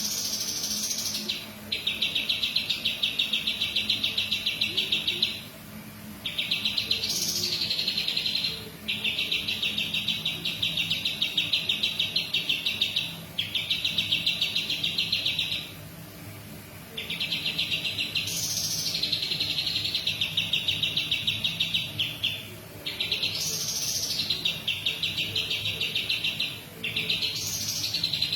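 A songbird singing long, rapid, buzzy trills, each lasting a few seconds with a short rising note at the start of several, repeated about seven times with brief pauses between.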